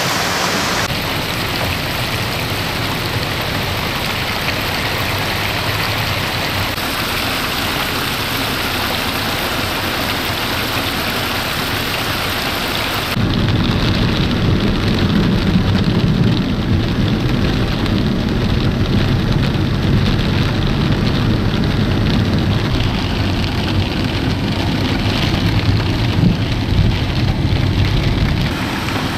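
Heavy rain and floodwater rushing down a street in a steady hiss. About 13 seconds in it turns louder and deeper, with a low rumble under the rain.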